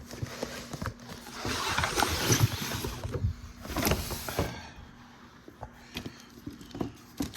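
A boxed model train car being tilted and shaken, with small loose beads rattling and bouncing inside among the rustling of the packaging. The owner takes the beads for the spilled contents of a broken desiccant packet. The rustling comes in two spells in the first half, followed by scattered small clicks.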